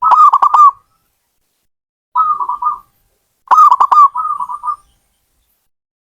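Zebra dove (perkutut) cooing: three phrases over about five seconds, made of quick clipped notes and a rolling trill, all at much the same pitch.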